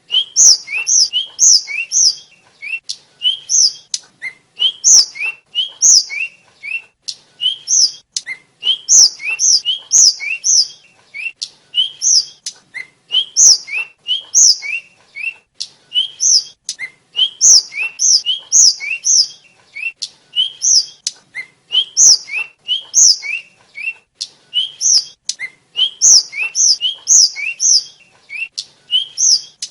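Tledekan (sulingan), a sikatan flycatcher, singing without pause: quick phrases of short, clear, sliding whistled notes that alternate between a lower and a higher pitch.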